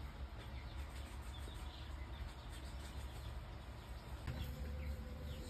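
Faint bird chirps over a low steady hum, with a longer drawn-out call starting near the end.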